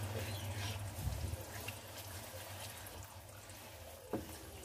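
Yogurt, onion and spice masala sizzling faintly in an oiled wok as a wooden spoon stirs and scrapes through it, with a short knock of the spoon about four seconds in. A low hum fades out in the first second or so.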